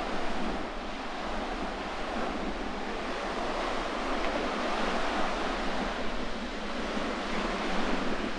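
Sea waves breaking on the shore, with strong wind buffeting the microphone.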